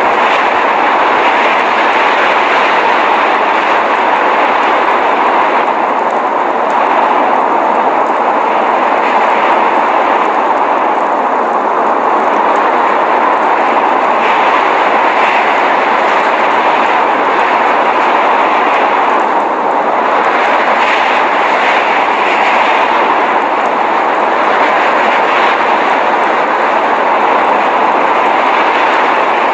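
Steady, loud rushing noise of a snowstorm, even and unbroken, strongest in the middle range with little low rumble.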